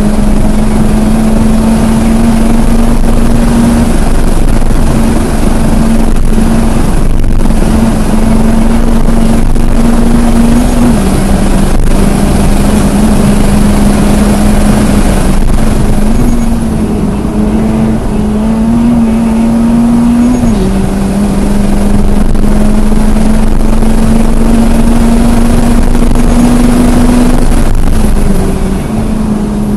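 2022 Subaru BRZ's 2.4-litre flat-four engine running hard at high revs, heard from inside the car. Its pitch creeps up and then changes in sudden steps several times as gears are shifted. It goes quieter near the end as the car slows for a corner.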